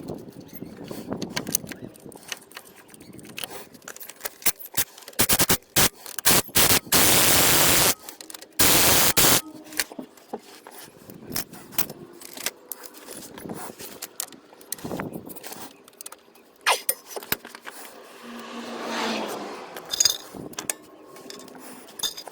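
Metal parts and hand tools clanking and scraping during exhaust work under a car, with scattered sharp clicks. Two loud bursts of rushing noise, each about a second long, come about seven and nine seconds in.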